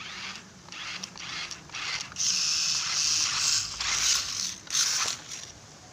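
Small electric RC rock-crawler truck's motor and plastic gearbox whirring in three short bursts of throttle, after a few faint clicks.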